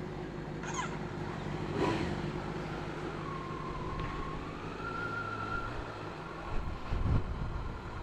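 Kawasaki Z900's inline-four engine running at steady revs while riding. A thin high whine rises in a step through the middle, and there is a low thump near the end.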